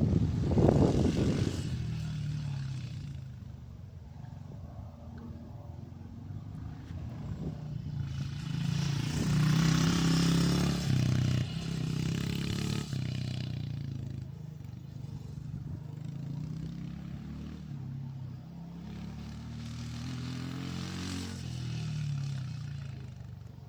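Dirt bike engine running and revving up and down as it is ridden, louder right at the start, swelling again about ten seconds in and once more past twenty seconds, fading in between.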